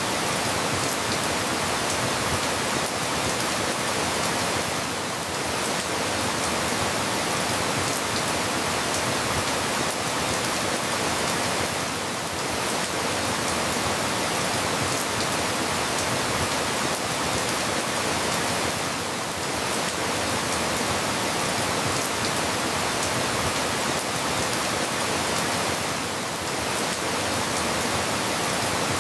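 Steady rain falling, an even hiss with a slight dip in level about every seven seconds.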